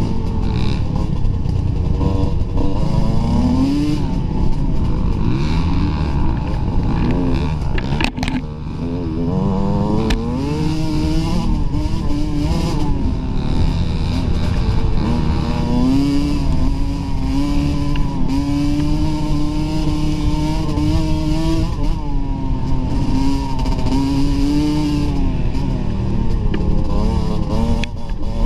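Dirt bike engine under way on a trail, its pitch climbing as it accelerates, dropping back and climbing again as it goes through the gears. There is a sharp knock about eight seconds in.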